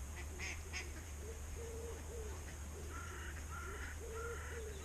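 Birds calling by the water: a low call of short, level notes repeated over and over, joined by a series of higher calls about three seconds in.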